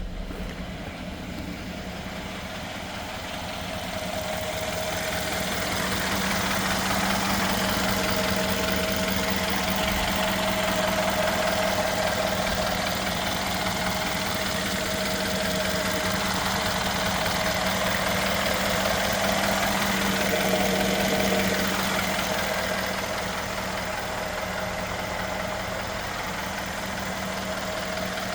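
Mercedes-Benz GL550's twin-turbo V8 idling with a steady hum, growing louder a few seconds in and easing back near the end.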